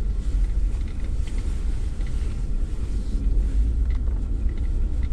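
Steady low rumble of a Jeep heard from inside the cab, engine and road noise together, with a few faint light ticks.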